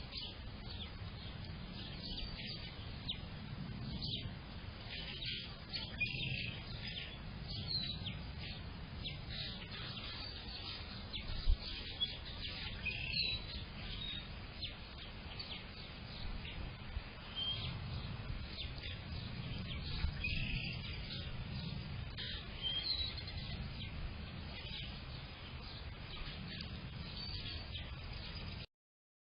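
Several wild songbirds chirping and singing in short, scattered high calls over a low steady rumble, with a couple of brief knocks.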